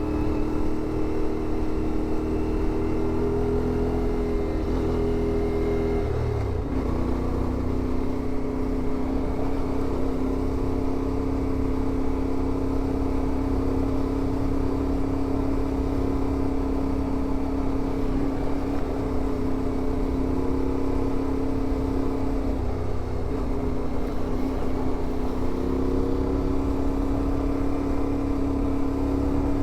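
CFMoto 450MT adventure motorcycle's parallel-twin engine running while riding, its note stepping down about six seconds in and shifting again twice near the end as the throttle or gear changes.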